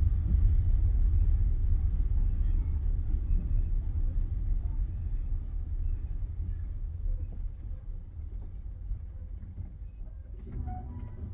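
Passenger train coach rumbling as the train slows, the low running noise steadily dying away, with a thin high-pitched squeal over it that stops shortly before the end.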